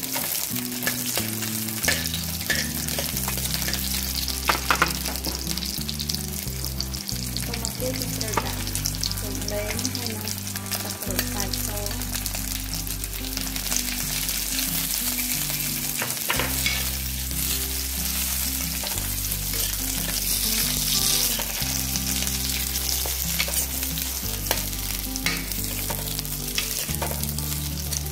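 Lemongrass, garlic and lime leaves frying in hot oil in a clay pot, sizzling steadily while a metal spoon stirs them, with the spoon now and then clicking and scraping against the pot.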